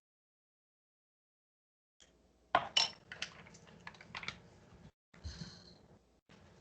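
Measuring spoon and bowl clinking and scraping as spices are spooned in and stirred: a run of sharp clinks after about two seconds of silence, then a brief scrape near the end.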